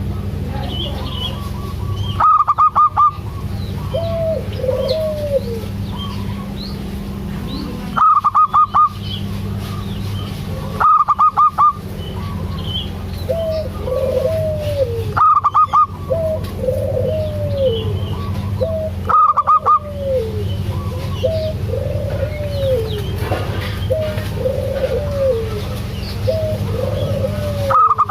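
Zebra doves (perkutut) calling. Every few seconds there is a loud burst of about five rapid staccato notes, and between the bursts come many softer cooing notes that rise and fall in pitch. A steady low hum runs underneath.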